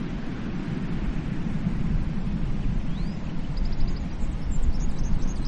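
Steady low rush of surf on a tropical beach, with small birds chirping in short high trills and one whistled note from about three seconds in.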